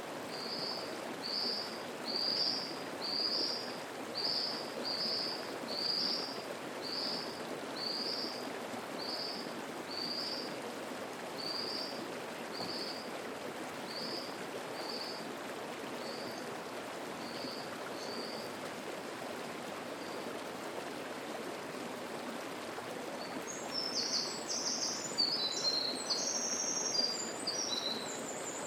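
Mountain stream babbling steadily over rocks, with a songbird repeating one short high note about once a second that fades out after a quarter of a minute. Near the end a bird sings a quick, jumbled run of higher notes.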